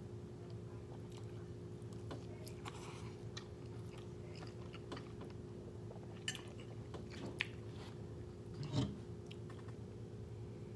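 Close-up eating sounds: chewing a mouthful of rice, egg and flatbread, with small clicks of a fork against a ceramic bowl and a soft thump about nine seconds in.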